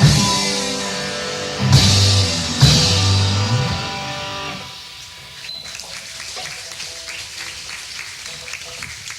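Live rock band with electric guitars, bass and drum kit striking the closing chords of a song: three big accented hits with crashing cymbals that ring out and fade. About five seconds in, audience applause and shouts take over.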